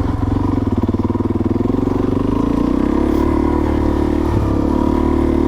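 Suzuki DR-Z400S's single-cylinder four-stroke engine running while the bike is ridden, its pitch rising slightly about two seconds in and then holding steady.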